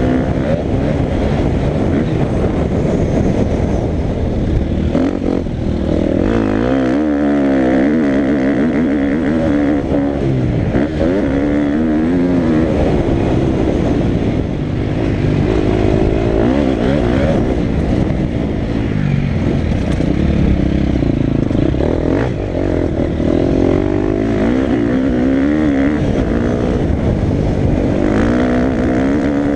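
Motocross dirt bike engine being ridden hard, its pitch rising and falling again and again with the throttle and gear changes.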